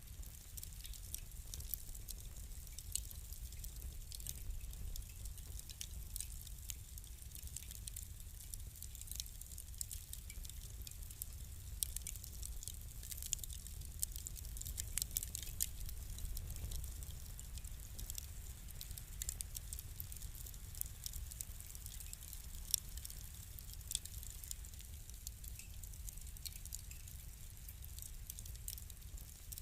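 Wood fire crackling: irregular sharp pops and snaps, some louder than others, over a steady low rumble.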